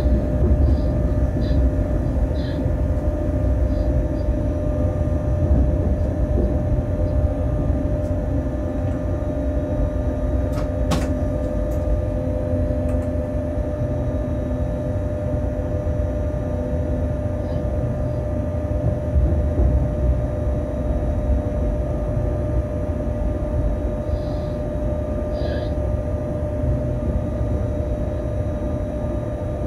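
Freight train heard from inside the locomotive cab, rolling on the track with a steady low rumble and a constant mid-pitched hum from the running equipment. A few brief high squeaks come near the start and again later, and a sharp click about eleven seconds in.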